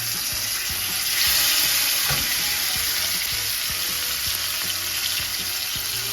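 Filet mignon steaks frying in hot oil in a pan, a loud steady sizzle that grows a little louder about a second in. There is one light knock about two seconds in.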